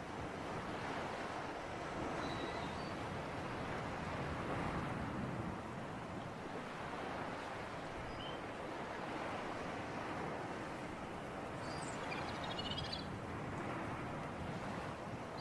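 Sea surf and breeze making a steady wash of noise that swells and eases slowly. A few faint high chirps sound over it, with a small cluster about twelve seconds in.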